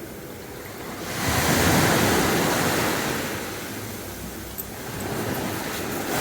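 Sea waves breaking on the beach: a wave surges in about a second in and washes back over the next few seconds, and another builds near the end.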